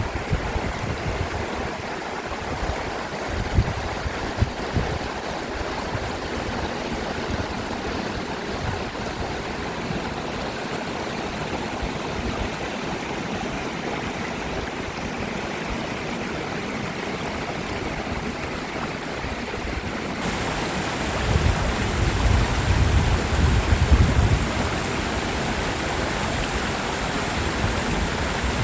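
Mountain valley stream rushing steadily over rocks. A low wind rumble on the microphone swells for a few seconds about two-thirds of the way through.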